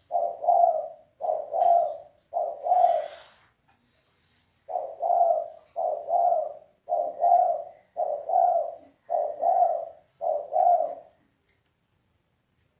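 Spotted dove cooing: low, repeated two-part coo notes, three in a run, a pause of about a second, then six more. This is the male's cooing call, used as a lure call for rival males.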